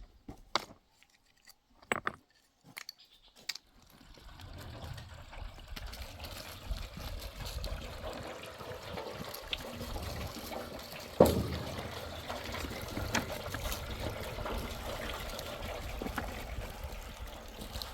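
Water running or pouring steadily, beginning about four seconds in after a few scattered clicks and knocks, with one sharper knock near the middle.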